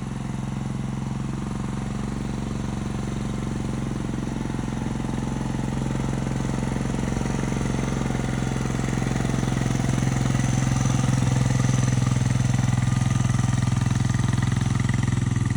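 Vehicle engine running steadily at low speed while towing a trailer, getting louder about ten seconds in.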